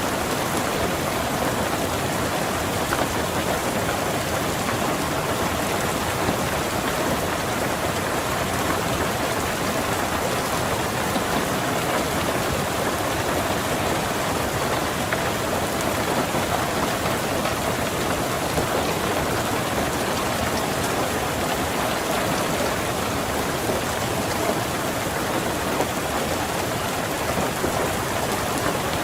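Steady, heavy rain drumming on a car's roof and windows, heard from inside the car.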